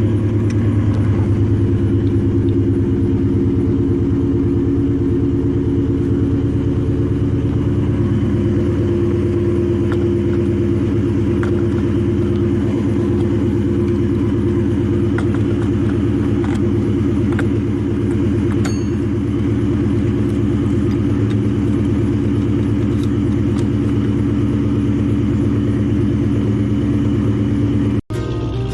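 Car engine idling steadily with a deep, even rumble and no revving; it cuts off abruptly near the end.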